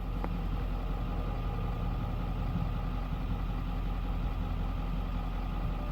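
Steady engine drone over a low rumble, holding an even level with no rise or fall.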